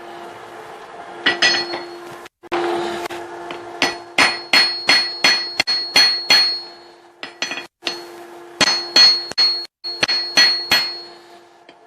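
Hand hammer striking hot steel on an anvil, the blows ringing. They come in two quick runs of about three strikes a second with a short pause between, as a hammer head is squared on the anvil. A steady hum runs underneath.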